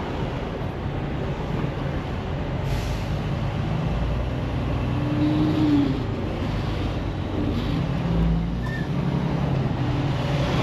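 Semi-truck diesel engine running at low speed, a steady low drone.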